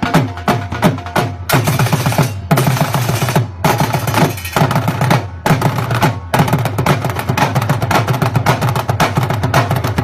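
Drums played in a fast, driving rhythm of rapid strokes, with a few brief breaks in the first six seconds.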